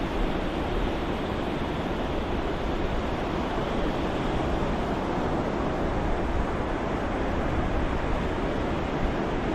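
Ocean surf soundscape used as white noise: a steady, even rush of waves with no separate breakers standing out.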